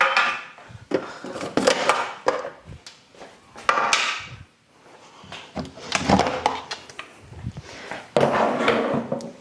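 Fridge shelves and door bins being pulled out and handled: a run of about five clattering knocks and scrapes of plastic and glass.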